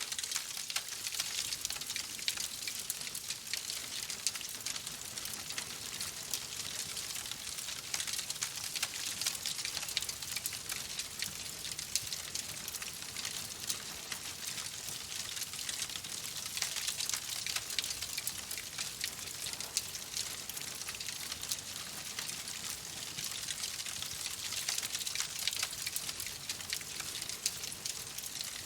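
Wood fire crackling steadily: a dense stream of small pops and snaps over a continuous hiss.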